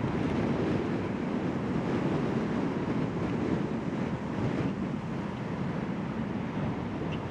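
Strong wind buffeting the microphone: a steady low rumbling noise that swells and eases with the gusts.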